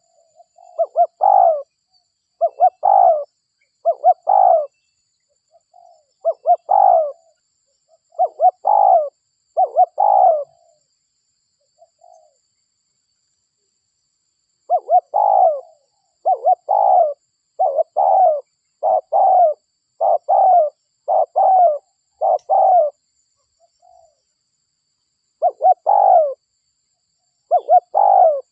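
Spotted dove (derkuku) cooing over and over: short, low coos about one a second, in two runs with a pause of a few seconds in the middle. A lure call used to draw wild spotted doves in.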